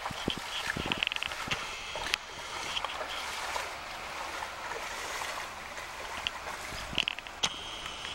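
Steady rain falling on a creek and the leaves around it, an even hiss, with a few sharper clicks and short high chirps about a second in and near the end.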